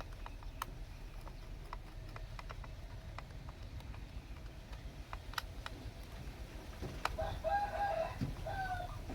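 An animal call: a few short pitched notes about seven seconds in, over scattered light clicks and a low steady rumble.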